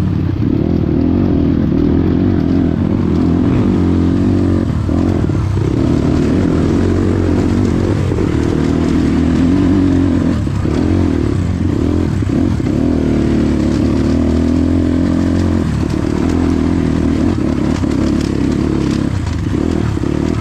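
Motorcycle engine running steadily while riding, its revs shifting slightly up and down.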